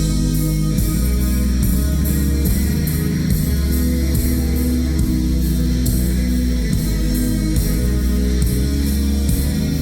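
A rock band playing live through a loud PA: electric guitars over a heavy bass and drum beat, in an instrumental stretch of a song.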